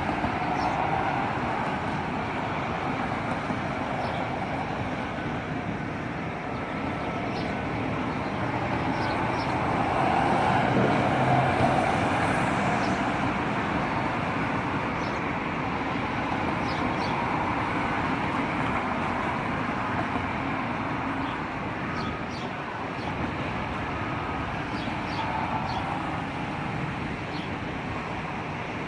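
Steady noise of vehicles and traffic, growing a little louder about ten seconds in, with faint scattered clicks on top.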